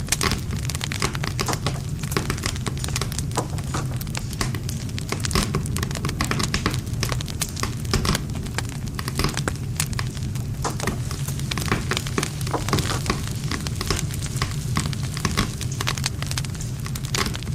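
Campfire of burning wood crackling and popping in a dense, irregular stream of small snaps, over a steady low sound of the flames.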